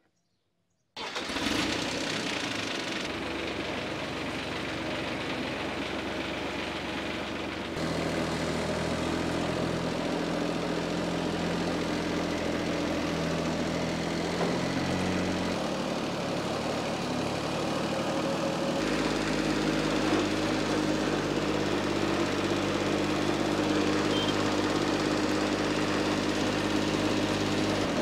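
Engine of heavy machinery running steadily. It cuts in abruptly about a second in, and its note changes a few times.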